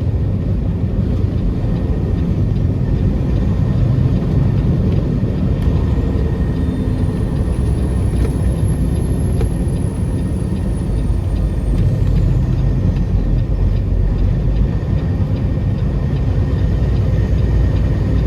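Semi truck's diesel engine running with road noise, a steady low rumble heard from inside the cab as it turns. A faint high whine rises and falls in the middle.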